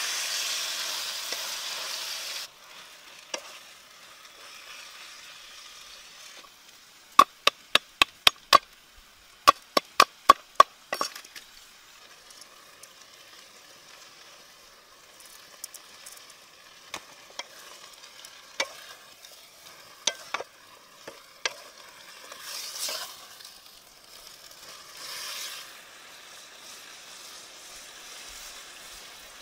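Sliced vegetables sizzling in a wok as a wooden spatula stirs them: loud for the first two and a half seconds, then quieter. About a quarter of the way in come about ten sharp knocks in two quick runs, the loudest sounds here, with scattered single clicks later.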